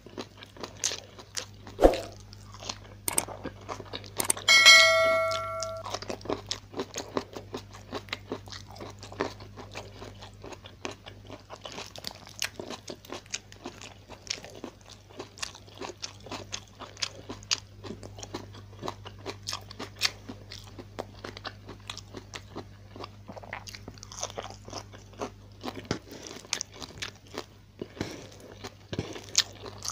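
Close-miked chewing and crunching of a meal of fried tilapia, stir-fried bok choy and rice, eaten by hand, with many small wet mouth clicks. A short ringing clink sounds once about four and a half seconds in.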